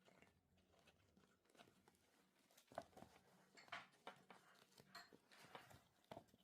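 Near silence with scattered faint clicks and rustles of handling, strongest a little before the middle and again near the end.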